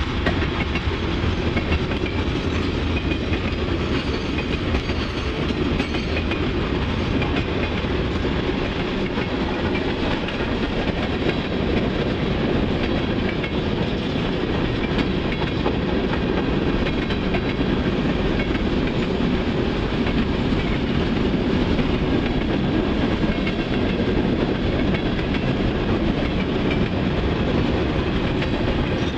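Freight cars of a CSX mixed freight train rolling past, steel wheels running on the rails with a steady noise.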